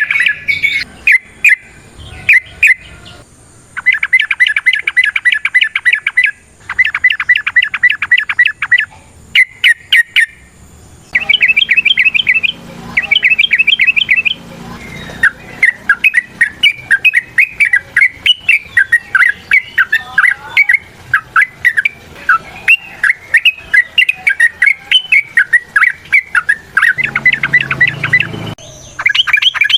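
Yellow-vented bulbul (trucukan) in loud, rapid chattering calls around 2 kHz: several short bursts of fast repeated notes with pauses, then, from about eleven seconds in, a long unbroken run of quick bubbly notes.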